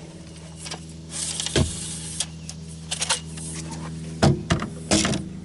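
Fishing reel's drag giving line in short whirring runs as a hooked flathead catfish pulls against it, with sharp clicks or knocks about a second and a half in and again near the end, over a steady low hum.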